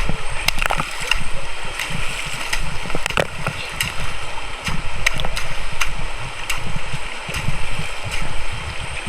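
A river running loud over rocks, with frequent small splashes.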